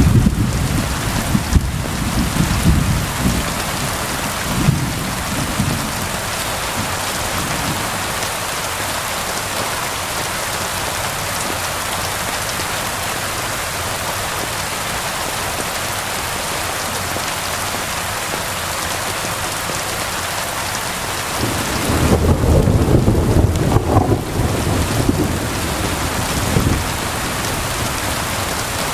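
Steady heavy rain falling, with low rolls of thunder rumbling at the start and again about two-thirds of the way in.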